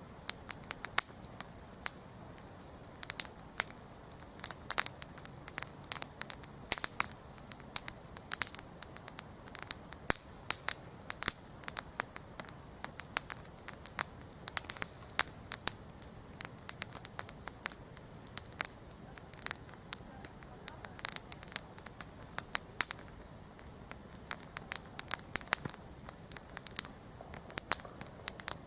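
Wood campfire crackling: many sharp irregular pops and snaps over a low steady hiss of burning.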